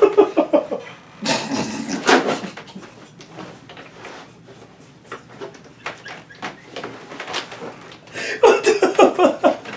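Voices talking indistinctly in bursts, with a quieter stretch in the middle.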